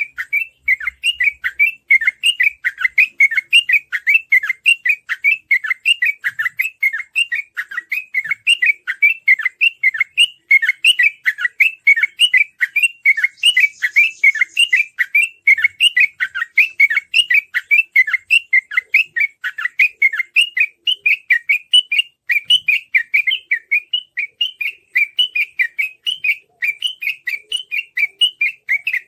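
Sooty-headed bulbul (trucukan) singing a fast, unbroken chattering song: short quick notes repeated several times a second without pause, the rapid 'ropel' style that bird keepers play to get other trucukan singing.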